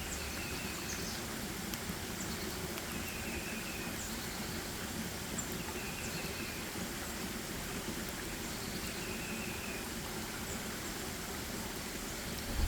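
Forest ambience: a steady hiss of background noise, with a short, flat, high call repeating every two to three seconds and a few fainter higher chirps.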